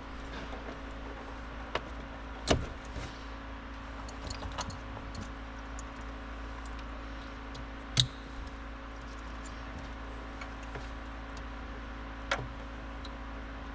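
A few sharp clicks and knocks of hands working on a car's rear light assembly, two of them louder, over a steady low hum.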